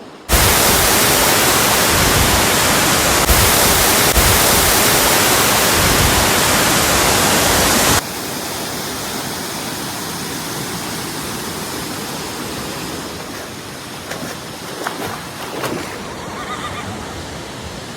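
Waterfall rushing, very loud and close at first, then cutting off abruptly about eight seconds in to a quieter, steady rush of water. A few faint knocks sound near the end.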